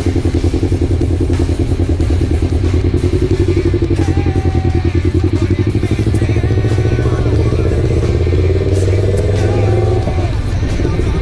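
Motorcycle engine idling with an even, rapid pulse while the bike creeps along at walking pace.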